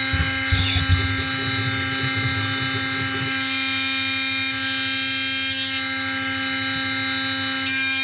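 Haas CNC machining centre's spindle running at a steady speed with a high, even whine, with rough low rattling from the cut during the first few seconds.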